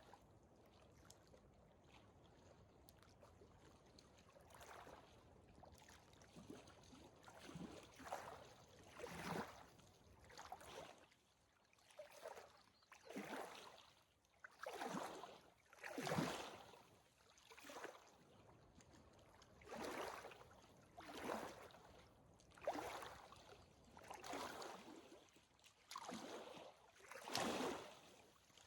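Faint footsteps of a hiker on a dirt trail: a soft scuffing step about every second and a half, in a steady walking rhythm.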